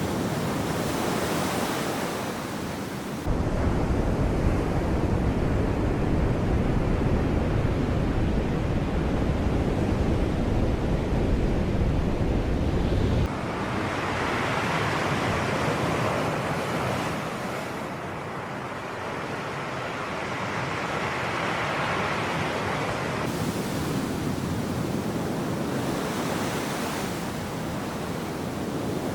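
Sea surf washing and breaking in steady, continuous noise, with waves swelling and fading in the second half. A heavy low rumble, wind on the microphone, starts suddenly about three seconds in and cuts off about ten seconds later.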